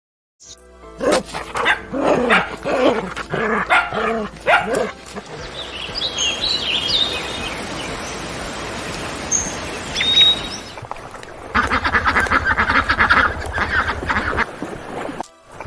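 A series of animal calls. Short repeated calls for the first few seconds give way to a steady hiss with a few high chirps, then a fast, evenly pulsing run of calls near the end.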